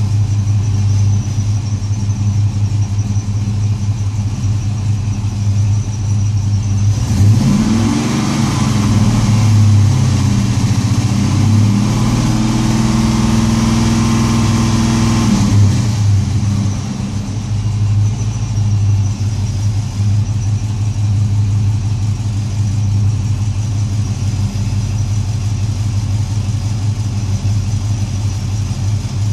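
LS1 5.7-litre V8 with a misfire, idling, then revved up about seven seconds in, held up for several seconds and let fall back to idle.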